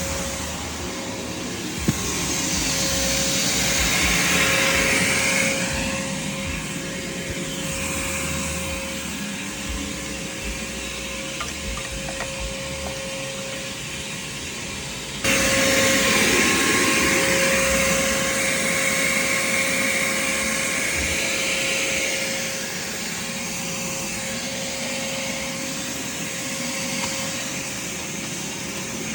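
Craftsman shop vac running while vacuuming, its motor giving a steady whine under the rush of suction air. The rush swells and fades as the nozzle moves, and jumps suddenly louder about halfway through.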